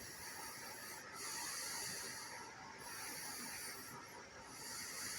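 Outdoor insects trilling in a high, faint chorus that comes in regular pulses of about a second, broken by short gaps.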